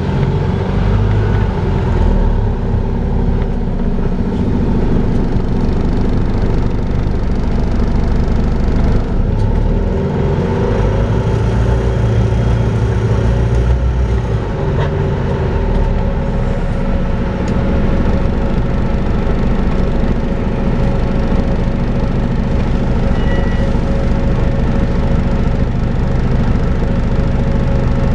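Volvo B5LH hybrid double-decker bus running in service, its four-cylinder diesel drivetrain droning steadily. A vacuum-cleaner-like whine, 'hoovering', sits over it as a steady tone from about eleven seconds in.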